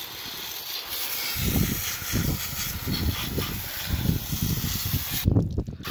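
Garden hose nozzle on its jet setting, spraying water in a steady hiss onto a dirt bike engine, with an uneven low rumble underneath. The spray cuts off briefly near the end.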